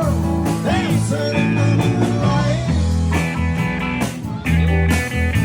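Live rock band playing a blues-rock song: drums, bass and electric guitar, with a melodic line that bends up and down in pitch.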